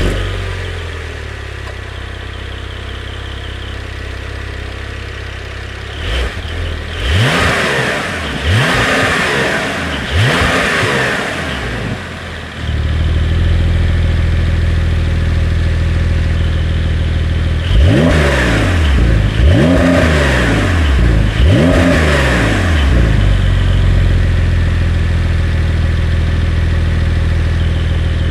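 Porsche 911 Carrera (992.2) turbocharged 3.0-litre flat-six idling and being blipped: three quick revs rise and fall a quarter of the way in, the idle then turns louder, and three more revs come past the middle before it settles back to a steady idle.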